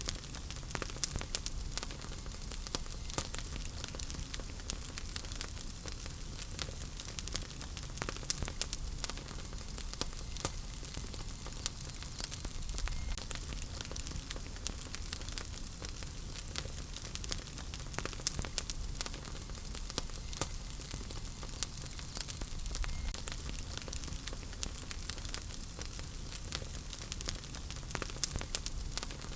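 Wood fire in a fireplace crackling: frequent sharp pops and snaps, several a second with some louder, over a steady low rumble and hiss of the flames.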